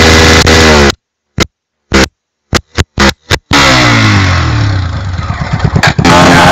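Motorcycle engine revved hard in short blips, then a longer rev whose pitch falls away through a rapid run of exhaust pops and crackles, before a loud rev again near the end.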